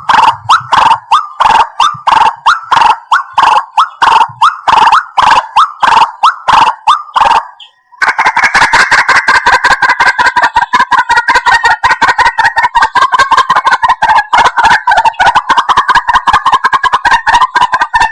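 White-breasted waterhen calling: a run of loud repeated notes, about three a second. After a short break about eight seconds in, the notes come much faster in a dense, unbroken chatter.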